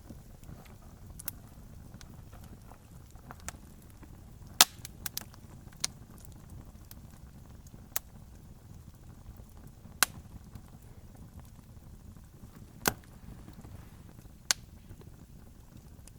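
Campfire burning, with sharp crackles and pops from the wood every second or two, the loudest about four and a half seconds in, over a low steady rumble.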